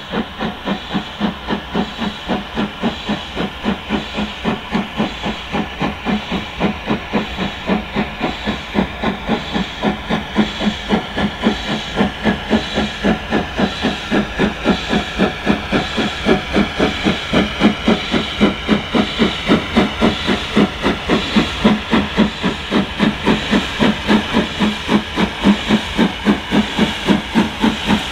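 Ex-Somerset & Dorset Joint Railway 7F 2-8-0 steam locomotive 53809 working under steam. Its exhaust beats come in a steady, rapid rhythm of about three to four a second and grow gradually louder.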